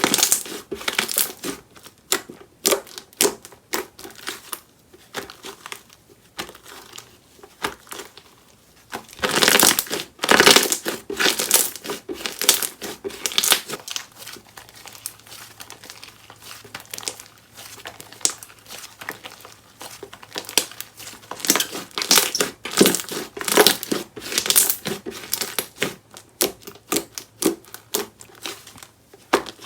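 Hands squishing and pressing a crunchy bead-filled slime (복숭아통통볼, 'peach tong-tong ball'), giving dense crackling clicks in bunches. The crackle is loudest a third of the way in and again past the two-thirds mark.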